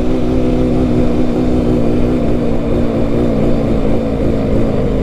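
Benelli BN 125's single-cylinder engine running at steady cruising revs, its note holding nearly level, over a low rumble.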